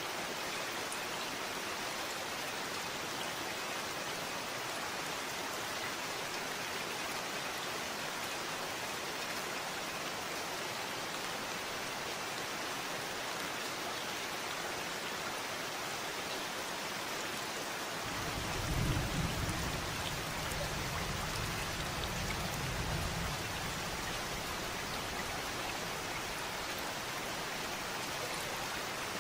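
Steady rain falling, an even hiss of many drops. About two-thirds of the way through, a low rumble rises for a few seconds and fades.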